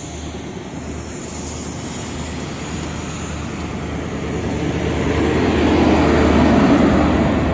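ScotRail InterCity 125 high speed train moving past the platform: Mark 3 coaches rolling by over the rails with a steady low diesel engine tone underneath. The sound grows louder over the last few seconds as the rear diesel power car comes past.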